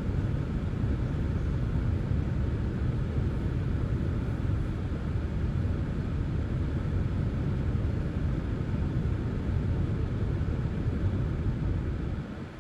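Heavy truck engine running with a steady low rumble that drops away about twelve seconds in.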